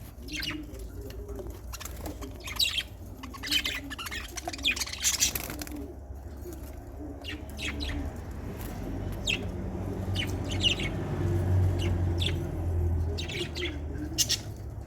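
A flock of pet love birds chirping, many short high calls scattered throughout, over a low hum that grows louder in the middle.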